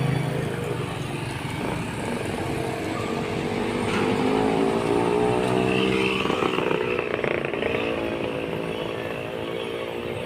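A motor vehicle engine running close by and revving up a little, its pitch rising slowly through the middle of the clip.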